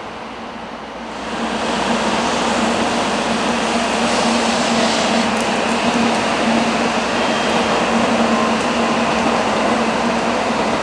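Tokaido Shinkansen high-speed train running past: a steady rushing noise of wheels and air that grows louder about a second and a half in, then holds, with a steady low hum beneath.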